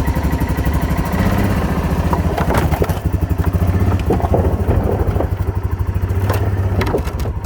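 ATV engine running steadily with a fast, even chug, with a few knocks and rattles on top.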